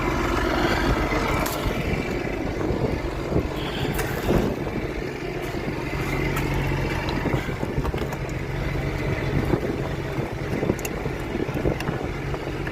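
An engine running steadily with a low, even hum, with wind buffeting the microphone and a few light knocks.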